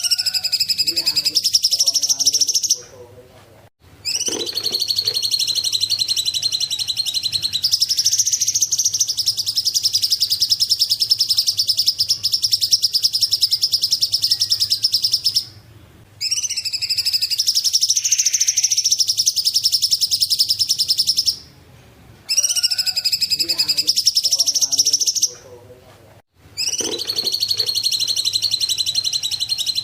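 A cungkok songbird singing long, fast, high trilling phrases, each lasting from a few seconds to about ten seconds, with short pauses between them.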